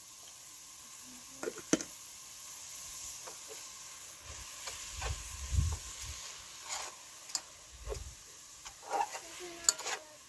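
Food sizzling in a cooking pan, with scattered clicks, knocks and scrapes from stirring.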